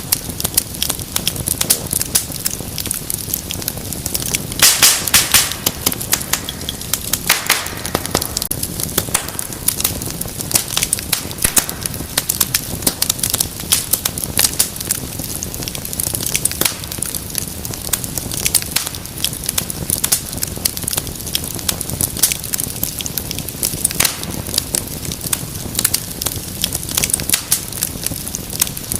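Wood fire crackling, with frequent sharp pops over a steady low rush of flame. A run of louder pops comes about five seconds in.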